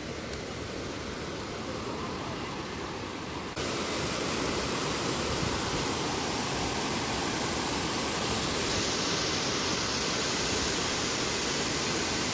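Rushing water of a waterfall and river, a steady noise that steps up louder about three and a half seconds in.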